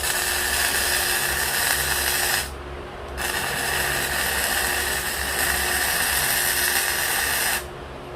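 Electric arc welding steel braces onto an H-beam: the welding arc hisses and crackles steadily in two runs. The arc breaks off abruptly about two and a half seconds in, is struck again under a second later, and cuts off near the end.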